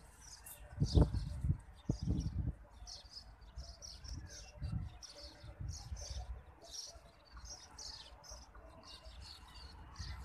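Small birds chirping repeatedly, with irregular low rumbling bursts, the loudest about a second in and again around two seconds in.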